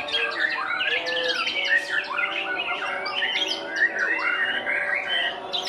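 White-rumped shama singing: a continuous rapid stream of varied whistles, chirps, pitch glides and harsh squawky notes, with overlapping calls that may come from other songbirds.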